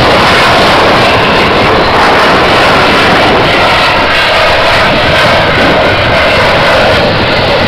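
Loud, steady jet noise from an F-16 fighter's single turbofan engine as it flies a display, easing slightly near the end.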